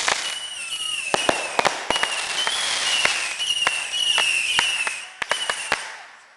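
Consumer fireworks going off: a hissing shower with a wavering high whistle and many sharp crackling pops, dying away near the end.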